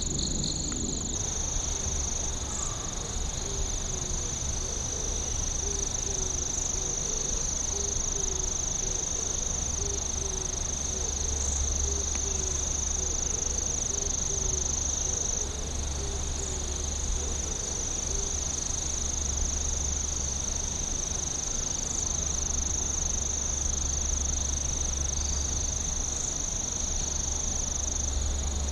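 Night insects singing in a steady, unbroken high trill. A fainter low call repeats about twice a second through the first two-thirds.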